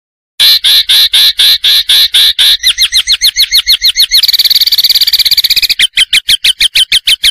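Bird calls on a masteran tutor recording for training white-rumped shamas: sharp notes repeated about five times a second. They quicken into a fast, slightly higher trill around the middle, then return to separate notes and cut off near the end.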